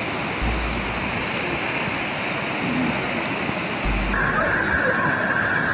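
Steady rushing noise of water, with short low rumbles now and then. It changes abruptly about four seconds in, when a brighter hiss comes in.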